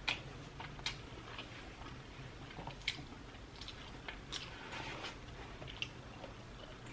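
Close-miked chewing of tender lobster tail meat dipped in sauce: soft, wet mouth clicks and smacks, a few sharper ones spaced irregularly.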